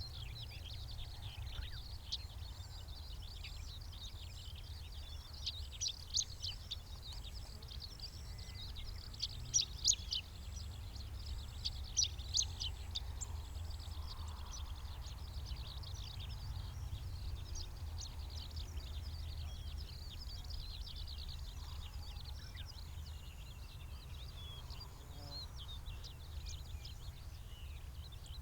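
Wild songbirds calling and chirping, several overlapping short notes in quick succession, busiest around the middle, over a steady low rumble.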